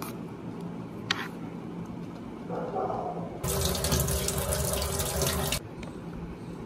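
Tap water running over a peeled green papaya being rinsed, turned on a little past halfway and cut off suddenly about two seconds later. A couple of short clicks come before it.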